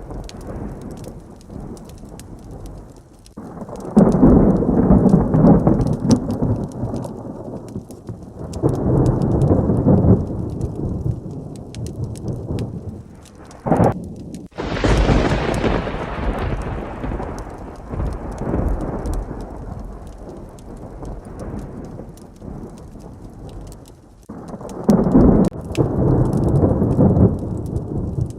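Heavy rain falling steadily while thunder rumbles several times. About fourteen seconds in, a sharp close thunderclap cracks and then slowly fades away.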